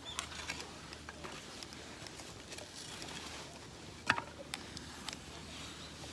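Wood campfire crackling: scattered light clicks and pops, with one sharper pop about four seconds in.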